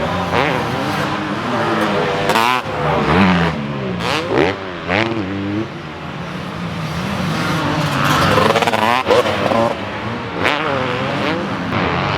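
Motocross bikes racing, their engines revving up and falling back again and again as riders work the throttle and shift gears.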